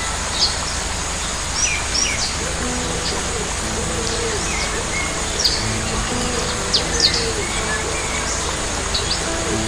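Birds chirping and calling in short, scattered notes over a steady hiss, with held music notes underneath.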